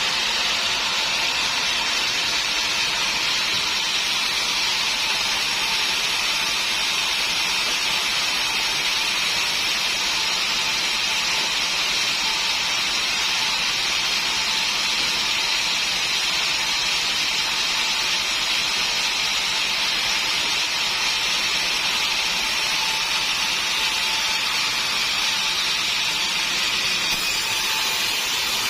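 Sawmill saw running with a steady, unbroken noise; the sound turns brighter about a second and a half before the end.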